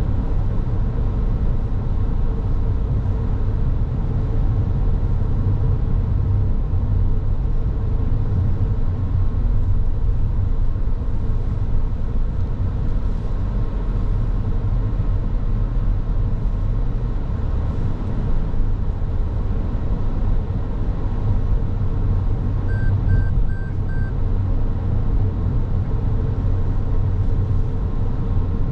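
Car driving along a road, a steady low rumble of engine and tyre noise. Four short, evenly spaced high beeps sound near the end.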